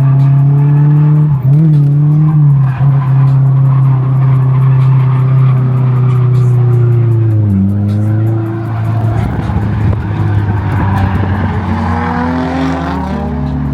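Drift car engine held at high revs while the tyres squeal and skid. About halfway the engine pitch dips and the sound turns rougher, then the revs climb again near the end.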